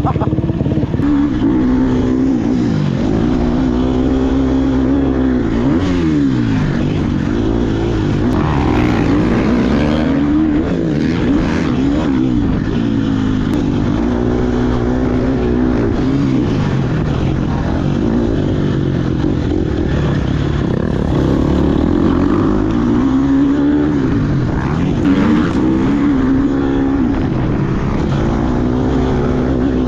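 Two-stroke dirt bike engine, a KTM SX150, ridden hard. The engine pitch climbs and drops again and again every couple of seconds as the throttle is worked through the gears.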